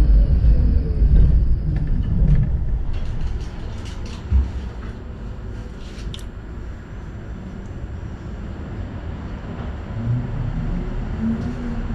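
City tram running on its rails: a loud low rumble with a falling motor whine that fades over the first few seconds as it slows, a few sharp clicks and knocks midway, then a quieter steady rumble, with a low motor hum coming back near the end.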